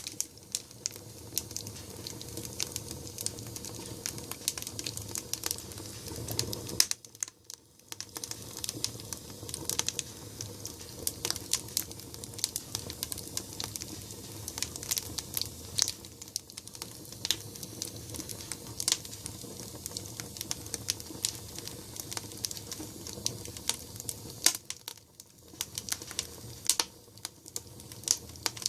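Firewood burning hard in a downdraft wood stove: a low, steady rumble of flames under frequent irregular sharp crackles and pops. The sound drops away briefly twice, about seven seconds in and near the end.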